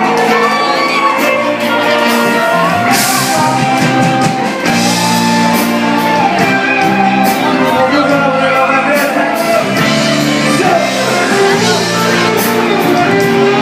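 Live band playing with singing: sustained sung and instrumental notes over drums, with cymbal crashes recurring throughout.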